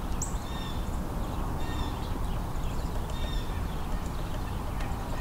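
A flock of house sparrows chirping: short, repeated chirps every half second or so, over a steady low rumble.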